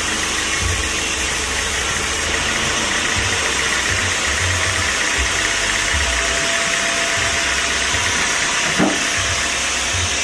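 An engine running steadily at idle, with a short, sharp sound about nine seconds in.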